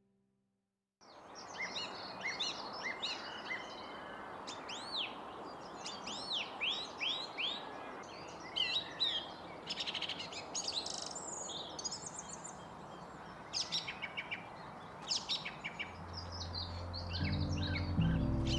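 Small songbirds chirping and singing in quick, varied calls over a steady outdoor hiss, starting about a second in. Low music notes come in near the end.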